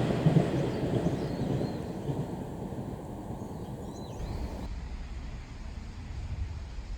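KiHa 110 series diesel railcar train running away, its rumble dying down over the first four seconds. About halfway through, the sound changes abruptly to a low, dull rumble like wind on the microphone.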